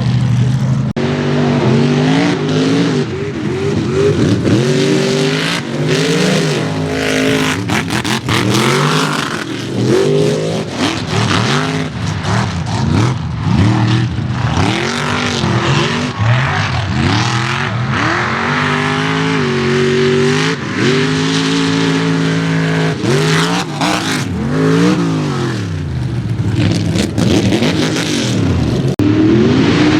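Mega mud truck engines revving hard, their pitch climbing and falling over and over as the throttle is mashed and let off through the pit.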